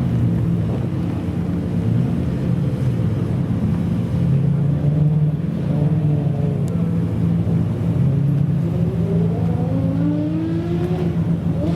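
Supercar engine running with a steady low rumble, then rising in pitch as it accelerates near the end.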